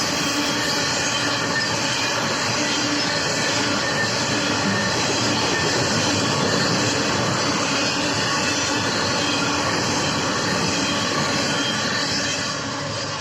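Freight cars of a BNSF intermodal train rolling past: a steady wheel-on-rail rumble with several steady high wheel-squeal tones over it. The sound starts to fade near the end.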